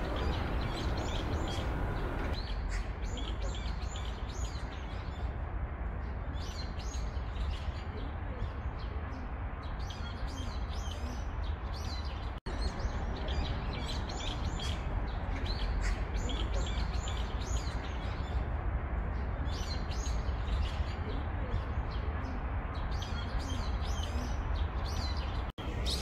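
Small songbirds chirping and twittering over and over, over a steady low background rumble. The sound cuts out for an instant twice, about halfway through and near the end.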